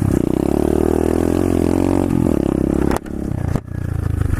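125cc SSR pit bike's single-cylinder four-stroke engine revving under throttle as the bike rides off. The pitch climbs, eases back down, then drops out briefly twice near the end before picking up again.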